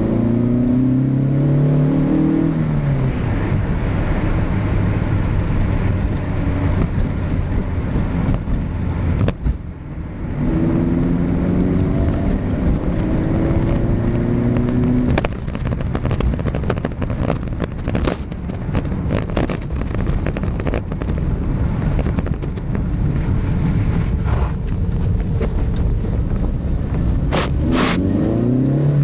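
Seat Ibiza 1.2i System Porsche engine heard through its exhaust, pulling with its pitch climbing twice in the first half, with a short drop near the ten-second mark. After that the engine note gives way to noisier rushing sound with crackles, and the pitch rises again briefly near the end.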